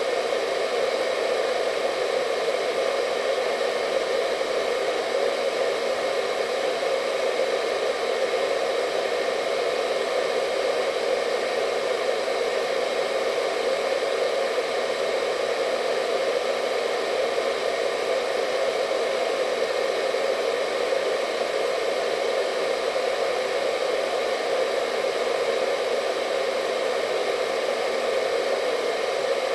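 Hair dryer running steadily, a constant whooshing hum with its strongest part low in pitch and a few faint steady whine tones above it.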